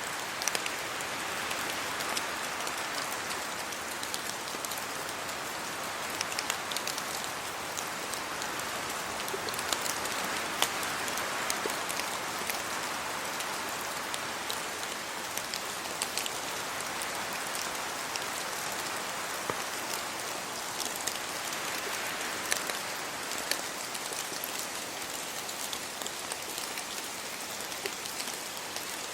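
Steady rain falling, an even hiss of rainfall with many separate drops ticking sharply on surfaces.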